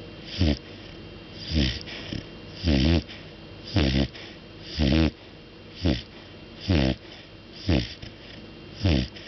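A sleeping golden retriever snoring, with short snores coming regularly about once a second.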